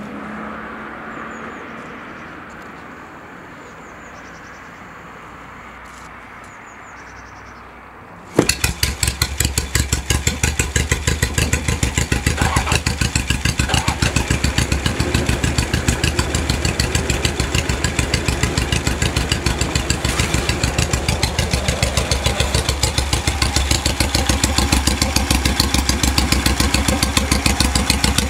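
Datsun A6 engine on a cold start: after several seconds of quiet background, it fires abruptly about eight seconds in and settles at once into a steady, even idle.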